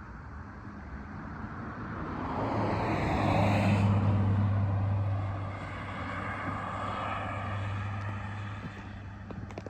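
An engine passing by, growing louder to a peak about four seconds in and then fading away.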